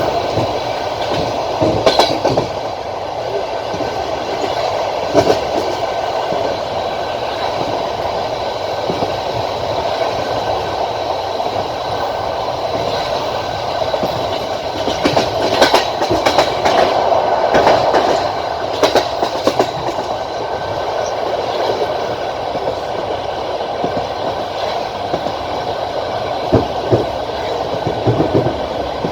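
Passenger train running at speed, a steady rolling rumble with groups of sharp wheel clacks over rail joints, thickest midway.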